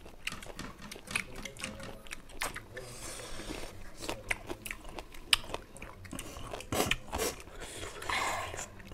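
Close-up mouth sounds of people biting and chewing raw lemon slices: irregular wet clicks and smacks, with two brief hissing sucking sounds, about three seconds in and near the end.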